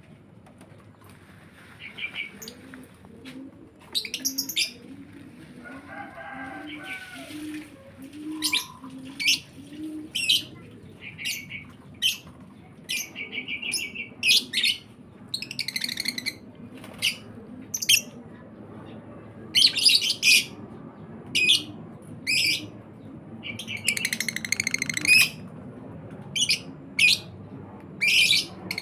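Lovebirds calling with short, sharp, high chirps, repeated every second or so and sometimes in quick pairs, with a longer burst of chirping near the end.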